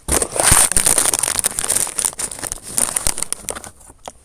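Loud crinkling and rustling, starting suddenly and thinning out after about three seconds.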